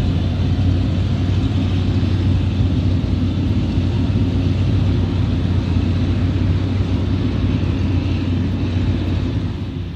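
Large diesel farm machinery working at the maize harvest: a steady, deep engine hum under a broad mechanical rush, dropping slightly in level near the end.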